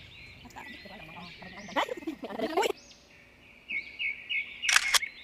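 Birds chirping and singing in repeated short, high phrases, with two brief louder sounds about two and five seconds in.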